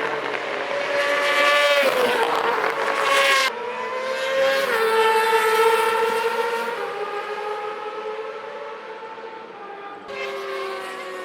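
Racing motorcycles at high revs. The engine note rises and then drops in pitch about two seconds in as a bike goes by. It changes abruptly about three and a half seconds in to a steadier engine note that slowly fades, and changes again near the end.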